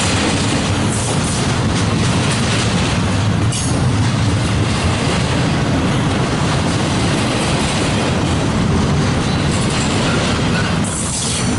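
Freight train cars rolling past at close range: a steady, loud rumble of steel wheels on the rails, with brief brighter hissing moments, once about a third of the way in and again near the end.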